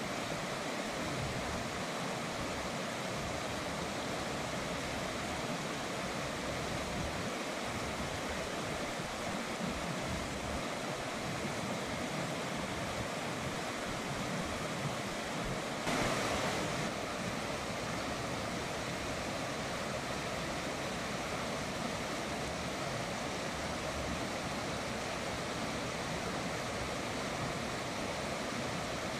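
River water flowing in a steady rush, with a brief louder surge about halfway through.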